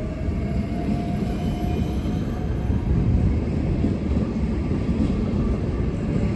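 Train running past: a steady low rumble of wheels on the rails, with a faint rising whine that fades out in the first two seconds.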